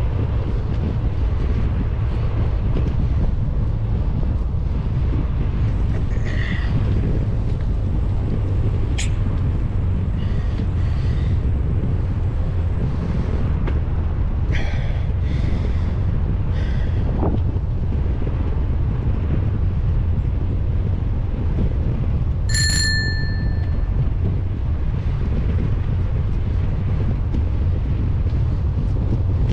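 Steady wind rumble on a bike-mounted camera's microphone while cycling, with a single ring of a bicycle bell about three quarters of the way through.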